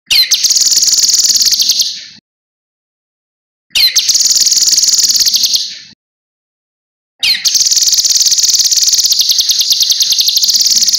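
Cucak kinoi (cucak rante mas) singing: three long, high, rapid trills, each opening with a quick falling note and separated by short silences, the last one the longest.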